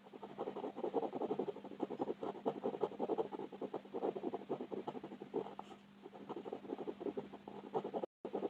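Rapid back-and-forth colouring strokes, a pencil or pen tip scratching across paper while filling in a mandala, with a short lull about six seconds in. A faint steady hum runs underneath.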